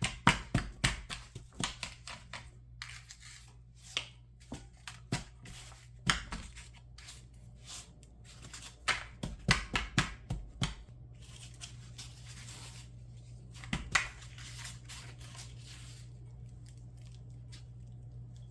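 Dry breadcrumbs crunching and rustling as an egg-dipped chicken breast is pressed and turned in them by hand: a run of sharp, crackly scrapes and pats that thin out after about ten seconds.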